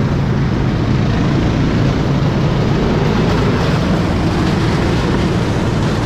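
A motor vehicle driving, its engine hum and ride noise steady and loud.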